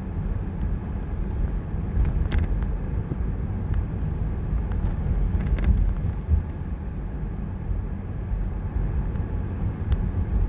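Car driving through a snowstorm: a steady low rumble of road and engine noise, with a few faint ticks here and there.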